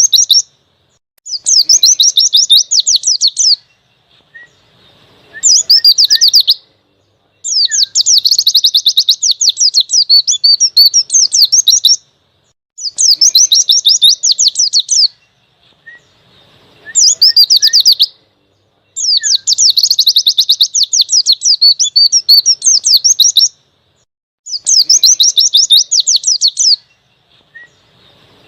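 White-eye (pleci) singing, its song in long bursts of very fast, high twittering, each a few seconds long, with short pauses between phrases.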